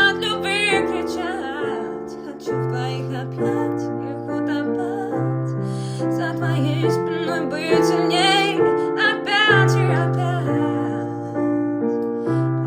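A woman singing a slow song over piano chords, her held notes wavering with vibrato in several phrases between steady piano notes.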